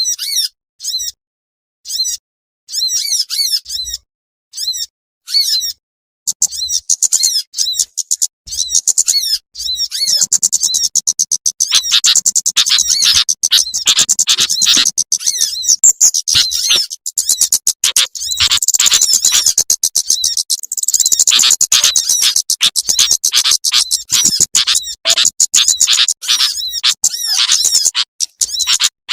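Lure recording of small birds calling, used to draw in sunbirds: separate short bursts of high chips at first, then from about six seconds a dense, fast run of shrill twittering calls.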